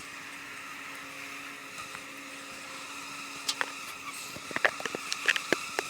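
Honey bees buzzing around opened hive boxes, a steady hum with one held pitch that fades out about four seconds in. In the second half come a few sharp knocks and clicks from wooden hive boxes being handled.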